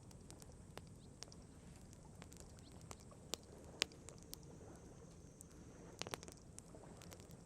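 Wood campfire crackling: scattered sharp pops, the loudest about four seconds in and a quick cluster of them about six seconds in.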